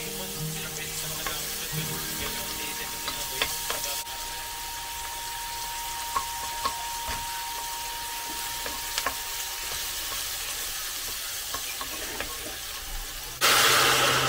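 Diced onion and garlic sizzling in hot oil in an enamel-coated pot, with a wooden spoon stirring and now and then tapping the pot. Near the end liquid is poured in, with a sudden loud rush of splashing and hissing.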